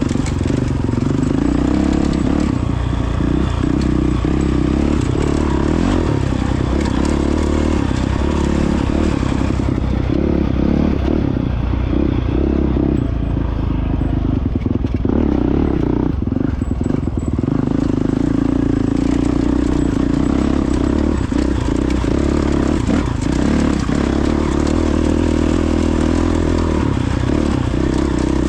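2022 Honda CRF450X's single-cylinder four-stroke engine running under way on a dirt trail, with loose rock and gravel clattering under the tyres. Around ten seconds in the engine eases off and the sound thins, then picks back up about seven seconds later.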